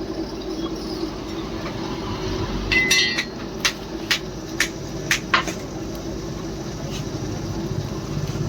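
Hammer striking steel: a run of sharp metallic blows about half a second apart, starting a few seconds in, the first with a brief ring. A steady low hum runs underneath.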